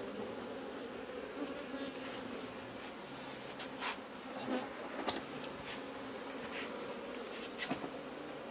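A mass of honey bees buzzing in a steady hum from an opened colony, with a few short knocks about halfway through and near the end.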